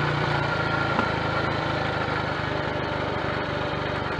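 Triumph Tiger Cub's single-cylinder four-stroke engine running steadily on the move, with one small backfire pop about a second in, on the overrun with its leaner carburettor setting.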